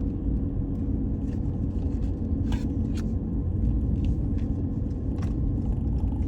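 A car's cabin while driving: steady engine and road rumble with a faint even hum, and a few light clicks and rattles.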